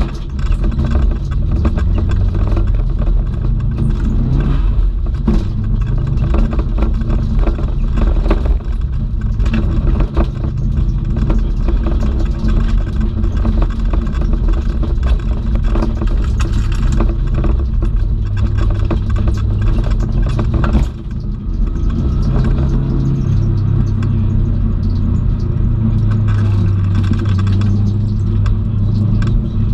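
Subaru Impreza WRX STI's turbocharged flat-four engine pulling hard, heard from inside the cabin, its note rising and falling with throttle and gear changes, with a brief dip about two-thirds of the way through. Constant tyre and road noise with many small clicks and rattles runs underneath.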